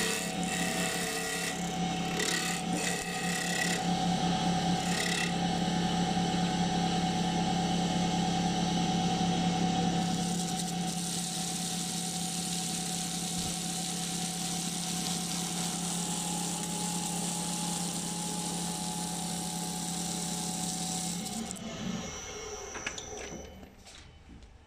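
Mini benchtop CNC wood lathe running, its motor humming steadily while the tool cuts the spinning wood with a hissing, scraping noise. The machine stops near the end and the sound dies away.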